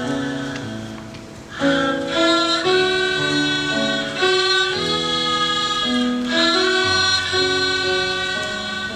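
Haegeum, the Korean two-string fiddle, playing a slow, sustained bowed melody with lower held notes beneath. A phrase fades out about a second in, and the next one swells in just after.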